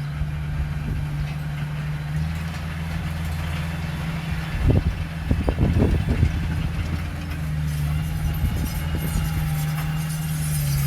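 Heavy earthmoving diesel engine running steadily, with a short run of clanks and knocks about four to six seconds in.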